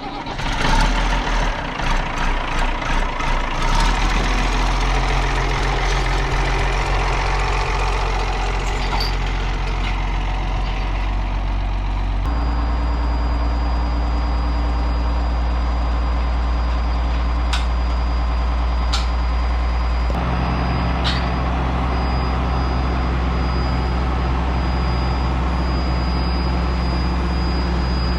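A large farm tractor's diesel engine running steadily under load, pulsing for the first few seconds. Its note changes abruptly about twelve and twenty seconds in, with a few sharp clicks in between.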